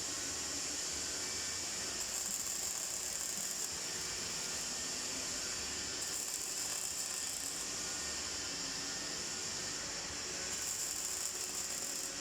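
MIG welding arc crackling in three short bursts of about a second and a half each, laying short welds or tacks on steel balusters, over a steady high hiss.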